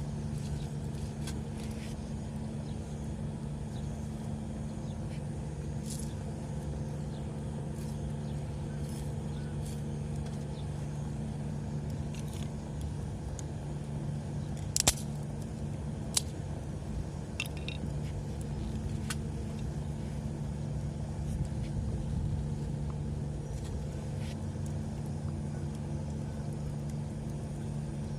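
A steady low mechanical hum with a few scattered sharp clicks, the loudest about fifteen seconds in.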